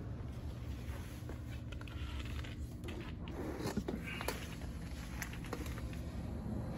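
Lasko 3733 box fan running steadily: a low motor hum with the rush of air, and a few faint clicks about halfway through. The fan's motor shaft and bearings are worn from long service.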